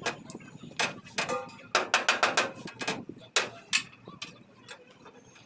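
Hammer blows on sheet metal, about a dozen sharp strikes at an irregular pace, some in quick clusters. They are typical of panel denting work on a pickup's steel body.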